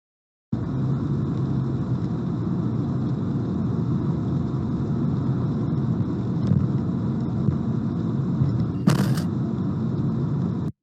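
Steady low rumble of a car driving, with a short sharp noise about nine seconds in.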